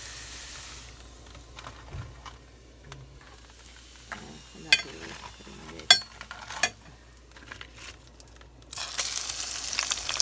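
Gim-bugak (rice-paste-coated laver chips) deep-frying in hot oil: a sizzle that dies down after about a second, a quieter stretch with a few sharp clicks, then loud sizzling and crackling that starts suddenly near the end.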